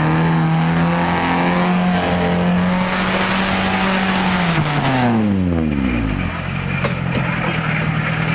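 A motor vehicle's engine held at steady revs, its pitch falling steeply about five seconds in, then settling to a lower steady drone.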